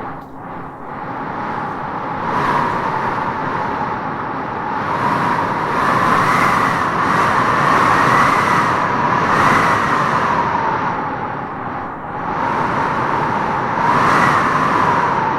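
Howling wind blowing in gusts: a steady rush with a wavering, whistling howl that swells and rises in pitch several times, loudest in the middle and again near the end.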